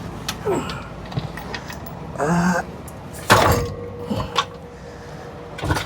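Heavy metal knocks and clanks as an old HVAC blower motor is lowered and dropped out of its unit, with one loud thud about three seconds in followed by a faint ringing.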